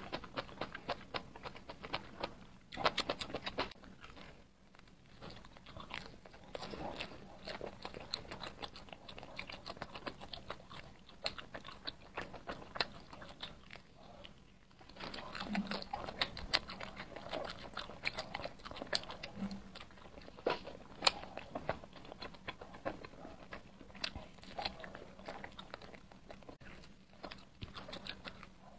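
Close-miked eating sounds: a person biting and chewing a chili-coated skewered snack, a dense run of small wet mouth clicks. It eases off briefly about four seconds in and again around fifteen seconds, then picks up again with a fresh bite.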